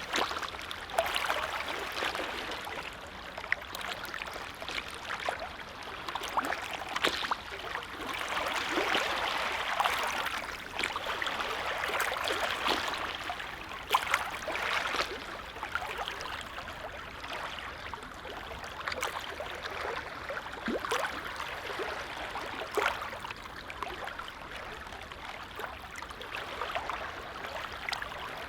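Small lake waves lapping at the shore: a steady wash of water broken by frequent little splashes, somewhat louder in the middle stretch.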